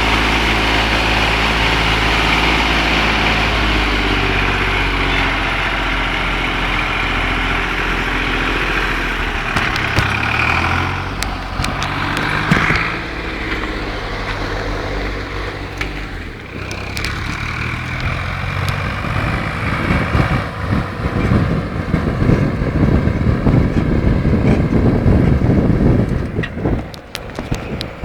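Nuffield tractor engine running, steady at first, its note shifting about a third of the way in, then joined by rougher, uneven noise in the last third.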